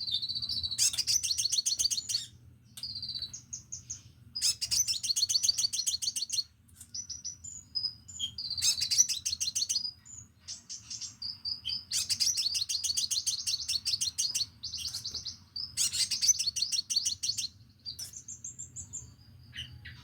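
Crimson sunbird singing: fast, high trilled phrases of a second or two each, repeated every few seconds, with short thin chirps in between.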